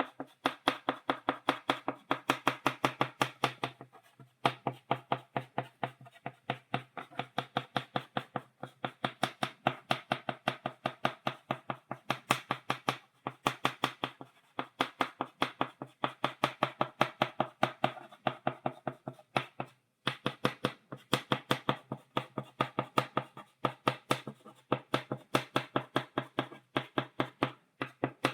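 Stick of chalk tapped rapidly against a blackboard, stippling dots: quick sharp taps, several a second, in runs broken now and then by short pauses.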